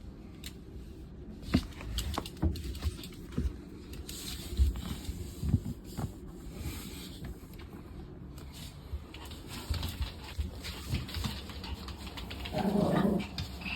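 Toy poodle's paws pattering and nails clicking on a hard floor: scattered light taps and clicks. Near the end there is a brief, louder sound.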